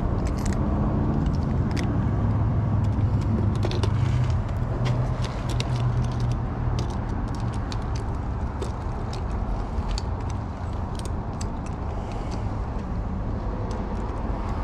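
A steady low mechanical rumble runs throughout, with scattered small clicks and taps of lock hardware and screws being handled.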